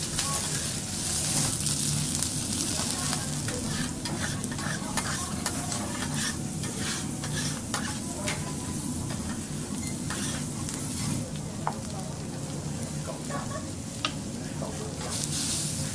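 Food sizzling on a teppanyaki griddle, with frequent short clicks and scrapes of metal spatulas on the hot plate, over a steady low hum.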